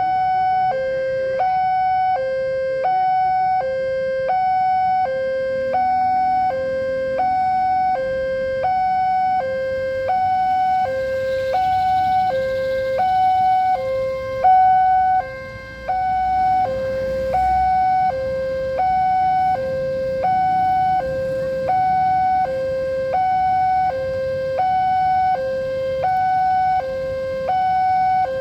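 Railway level-crossing warning alarm sounding, an electronic two-tone signal alternating between a low and a high tone about every three-quarters of a second, the signal that a train is approaching and the barriers are closing.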